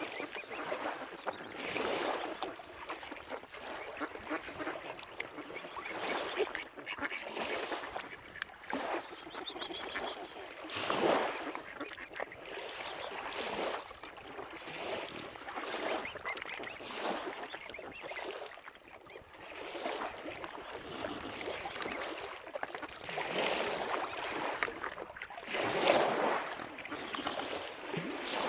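Waterfowl calling, a long series of irregular honking and quacking calls, with lapping water underneath.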